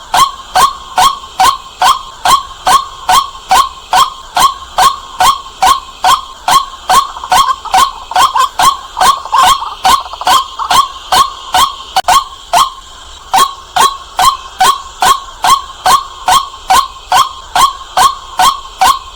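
White-breasted waterhen calling loudly: a fast, regular string of kwak notes, about two and a half a second, with a brief break about twelve seconds in.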